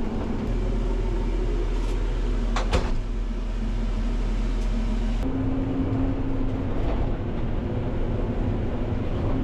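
Bergmann C912s tracked dump truck's diesel engine running steadily under load, with a sharp clunk near three seconds in; the engine note steadies into a clearer hum just over five seconds in.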